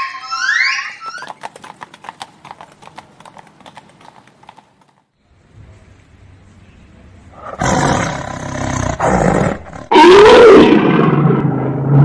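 Animal calls: a quick run of rising chirps at the start, then after a quiet gap a loud, rough call from a large animal, with a rising-then-falling cry about two-thirds of the way through.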